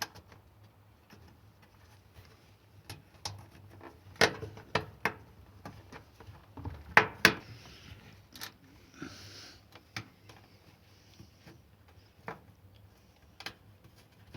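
Scattered clicks and knocks of hand work on a washing machine door's mounting: screws, nuts and a screwdriver being handled and fitted. The loudest knock comes about four seconds in and two more close together about seven seconds in, with a short hiss about nine seconds in.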